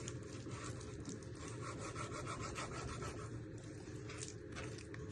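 Knife cutting raw chicken breast into pieces on a chopping board, a faint run of irregular scraping strokes.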